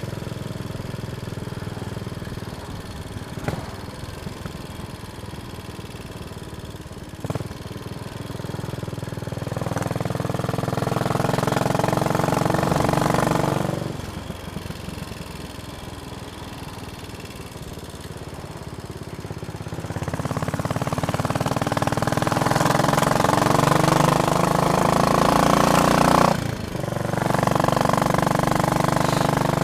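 Royal Enfield Bullet Machismo 500's single-cylinder engine on the move, its note rising as it pulls, falling back about halfway through, then rising again, with a brief sharp drop shortly before the end.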